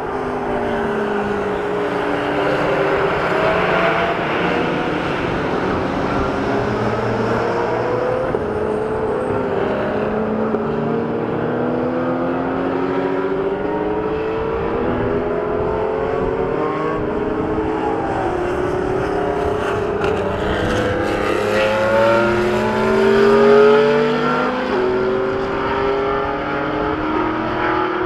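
Supercar engines accelerating hard, their pitch rising and dropping again and again as they shift up through the gears. The loudest pass comes about five seconds before the end.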